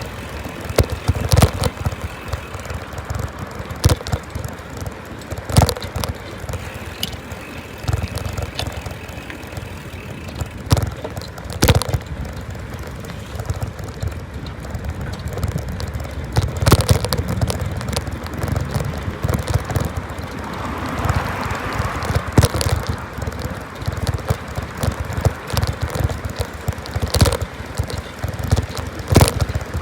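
Riding noise from a bicycle ride: wind buffeting the microphone over a steady rumble, with sharp knocks and rattles every few seconds. A rushing hiss swells and fades about two-thirds of the way through.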